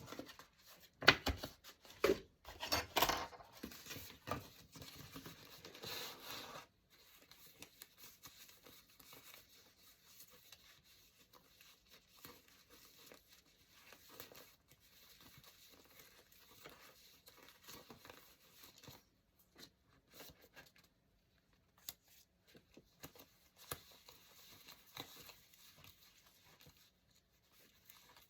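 Paper being torn by hand in a run of rough rasping strokes for the first several seconds, stopping abruptly, then fainter rustling and handling of paper.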